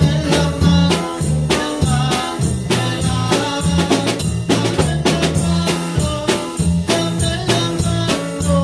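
Band music with a drum kit keeping a steady beat of snare and kick over a moving bass line.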